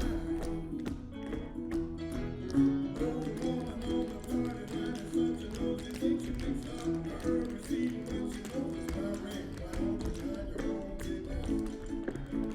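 Tap shoes clicking in quick, rhythmic steps on a stage floor over recorded backing music.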